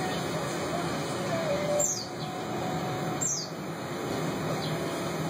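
A bird chirping: short, high calls that fall in pitch, heard twice about a second and a half apart, over a steady low background noise.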